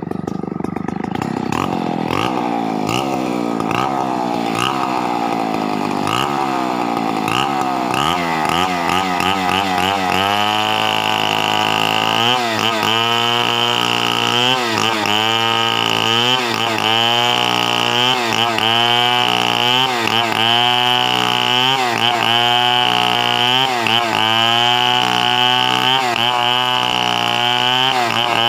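Two-stroke chainsaw engine revving in repeated swells that climb higher over the first ten seconds, then running at high revs with its pitch dipping and recovering about once a second.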